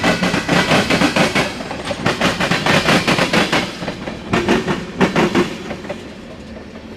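Norfolk Southern freight train cars rolling past, wheels clicking in quick repeated knocks over the rail joints. The clicking fades away over the last second or so.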